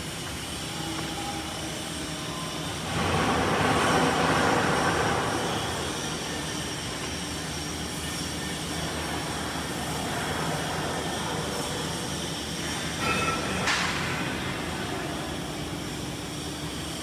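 Steady industrial machinery noise in a steel fabrication shop, with thin high squealing tones running through it. It gets louder for a few seconds about three seconds in, and there is a short sharp sound near the end.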